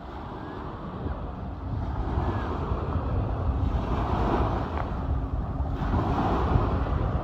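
Sea waves washing on the shore, with wind buffeting the microphone as a low rumble. The sound builds over the first couple of seconds, then holds steady.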